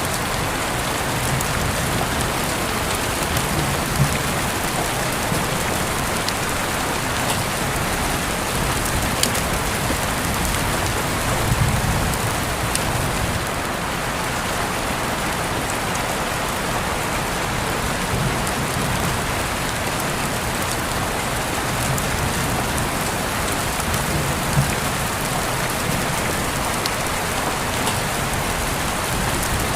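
Steady rain falling on a surface, an even hiss with scattered sharp drop ticks and a few brief louder spatters.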